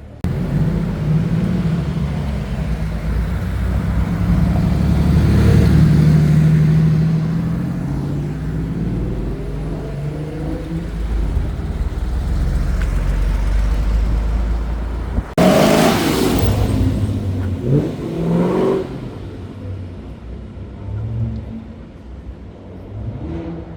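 Car engines running and accelerating, their low engine notes rising in pitch with the revs about eight to eleven seconds in. The sound changes abruptly about fifteen seconds in, to another vehicle.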